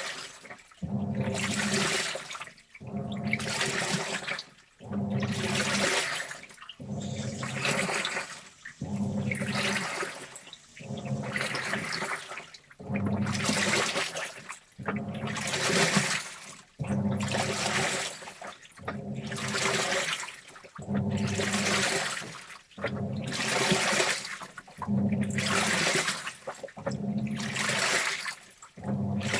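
Washing machine in its wash cycle, water sloshing in the turning drum in regular bursts about every two seconds, with the motor humming under each burst and short pauses between.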